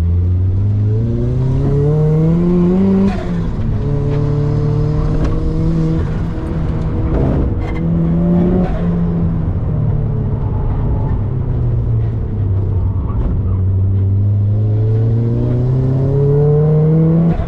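Turbocharged Mazda MX-5's four-cylinder engine, heard from inside the cabin, accelerating hard out of a second-gear start: the revs climb for about three seconds and drop sharply at an upshift, then rise and fall through the corners. Near the end a long climb in revs ends in a sudden drop.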